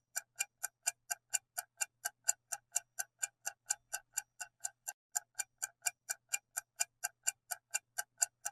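Quiz countdown timer sound effect: a clock ticking evenly, about four ticks a second.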